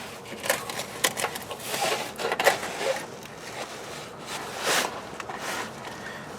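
Irregular scraping and light knocking as the old, corroded power steering return line is worked down and out past other parts of the engine bay, with a longer scrape about three-quarters of the way through.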